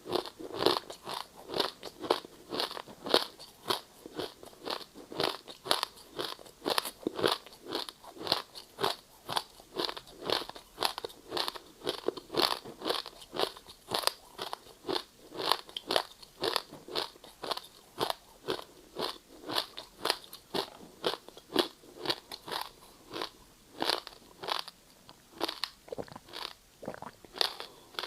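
Ice being bitten and chewed close to the microphone: a steady run of crisp crunches, about two or three a second.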